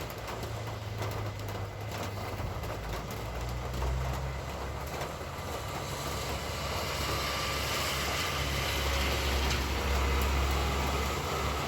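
Motor traffic passing on a wet street: a low engine rumble with tyre hiss on the wet road, growing louder in the second half as a vehicle comes close, then easing near the end.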